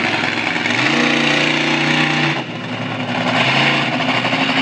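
Monster truck engine revving hard. Its pitch climbs about a second in and holds, drops off briefly about two and a half seconds in, then climbs again.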